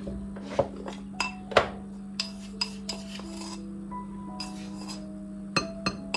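Dishes and cutlery clinking and clattering: a series of sharp knocks with a short ring, and a stretch of scraping midway. Soft background music plays underneath.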